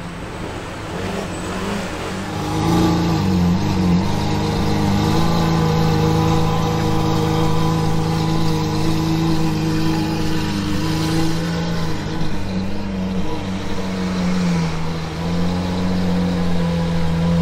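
Lamborghini Aventador's V12 engine at low revs as the car pulls away slowly. The engine gets louder and rises a little in pitch about two seconds in, then holds a steady note.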